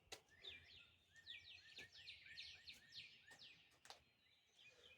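Faint songbird singing, a rapid run of short, downward-sliding chirps that stops about three and a half seconds in, with a few faint clicks.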